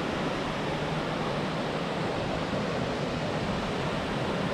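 Steady rushing of Murhut Falls, a large waterfall heard close at hand, an even noise with no breaks.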